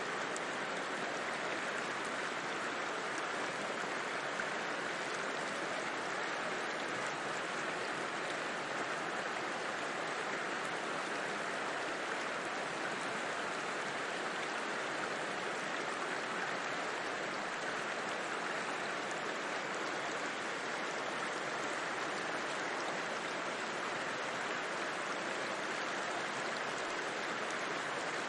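River flowing, a steady, even sound of running water with no breaks or changes.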